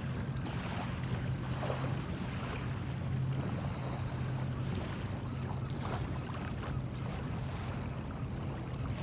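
Small waves washing on a bay shore, with wind, in soft repeated swells. Under them runs a steady low engine drone that eases off about halfway through.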